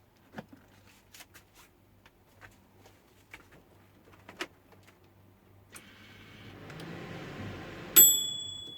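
Light handling clicks, then a microwave oven is powered and runs with a steady hum of its fan and transformer. About eight seconds in, a single loud bell-like ding rings out, the loudest sound here, and the running noise winds down.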